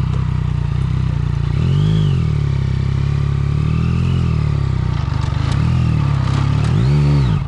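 Yamaha MT-09 Tracer's three-cylinder engine running at low revs, with four throttle blips that make the pitch rise and fall, the last one the strongest. The engine sound cuts off abruptly right at the end.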